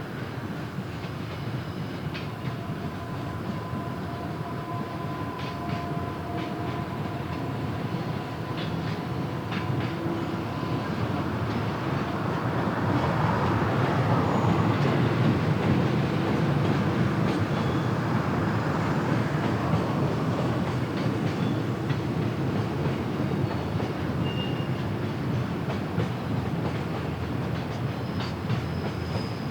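Freight train running past on the rails, the wheels clicking over the rail joints. It grows louder to a peak about halfway through, then eases off.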